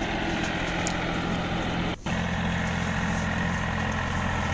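Diesel engine of a Solis 5015 50 hp 4WD tractor running steadily as it drives a Shaktiman rotavator through field soil. There is a brief drop-out in the sound about two seconds in.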